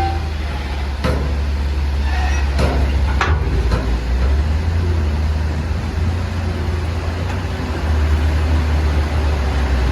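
Engine of a truck loaded with oil palm fruit, running with a steady deep rumble, with a few short knocks or rattles in the first few seconds.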